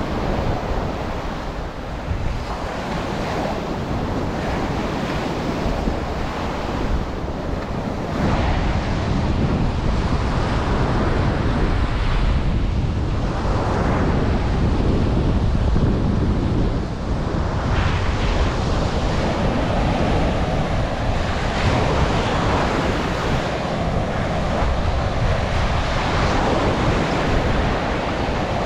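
Ocean surf washing on the shore, with wind buffeting the microphone; the low wind rumble grows heavier about eight seconds in.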